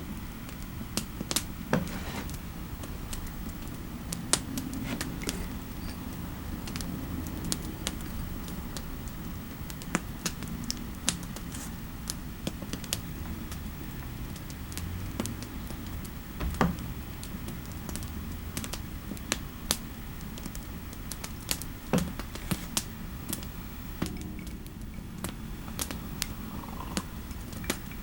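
Typing on a computer keyboard: irregular, unhurried keystrokes, a few louder clicks among them, over a steady low fireplace ambience.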